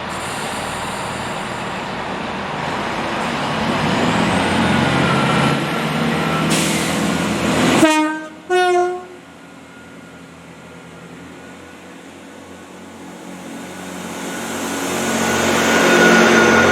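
A train running with a noise that builds for several seconds, then two short blasts of a two-tone train horn, the second a higher note, about eight seconds in. Afterwards it is quieter until another engine noise builds up near the end.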